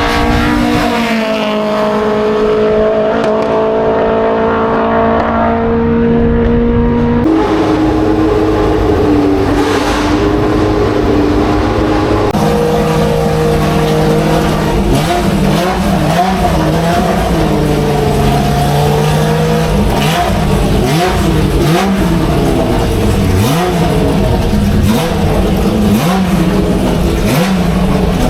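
Historic racing car engines running hard at speed. The engine note changes abruptly twice, and from about halfway on it rises and falls again and again as cars rev, shift and pass.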